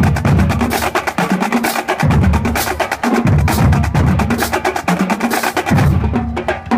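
A marching drumline playing a percussion cadence: rapid snare strokes over deep, repeated bass drum hits.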